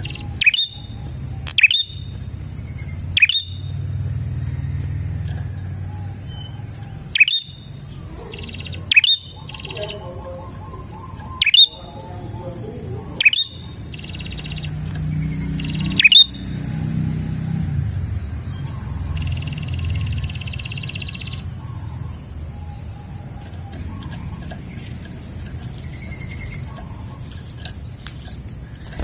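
Prinia (prenjak) calling: loud, sharp down-slurred notes, about eight of them at irregular intervals over the first sixteen seconds, then only quieter chirps. A steady high-pitched buzz runs beneath.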